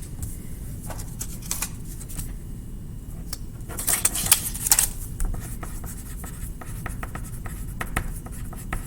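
Colouring strokes scratching back and forth on paper, with a louder burst of fast scribbling about four seconds in.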